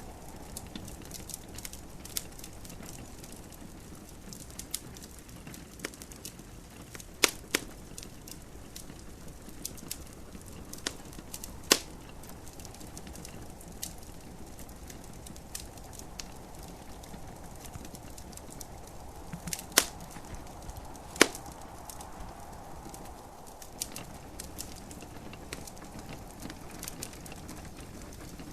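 Wood fire in a fireplace crackling, with scattered small snaps and a few sharp, loud pops, twice close together about seven seconds in, once near twelve seconds, and two more around twenty and twenty-one seconds, over a steady soft hiss.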